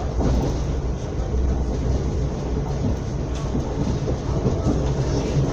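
Passenger train running along the track, heard from inside the carriage: a steady low rumble with a few faint clicks.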